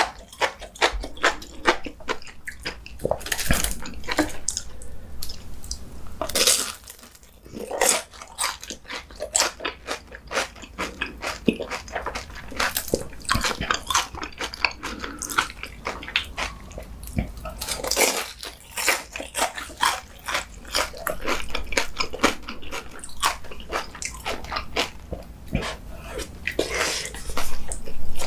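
Close-miked eating sounds of a person biting and chewing food: many quick, irregular crunches and mouth clicks, with a few louder bites.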